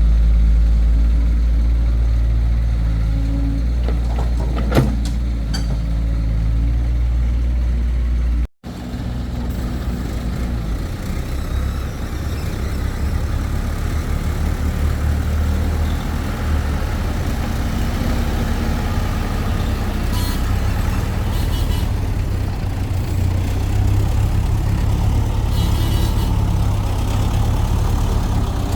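Heavy diesel engine of earth-moving machinery running steadily, with a short clank about five seconds in. After an abrupt break about eight and a half seconds in, the engine goes on with a rougher rumble.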